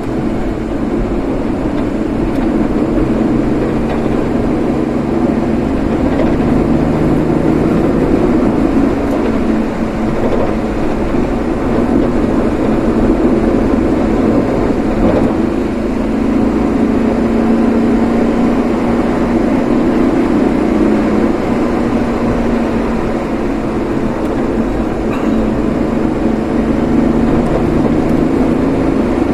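Steady engine and road noise of a vehicle being driven along a road. A low hum drifts gently up and down in pitch as the speed changes.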